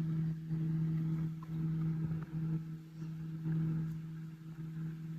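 Steady low electrical hum, one constant pitch with an overtone, under faint background noise.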